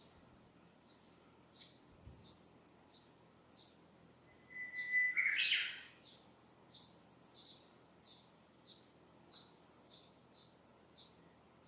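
Wild birds singing: a steady string of short, high chirps about twice a second, and about halfway one louder song of a long held whistle that breaks into a quick higher flourish.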